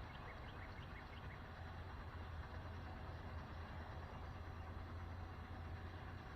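Outdoor morning ambience: a steady low rumble, with a bird giving a quick run of short high chirps in the first second and a half.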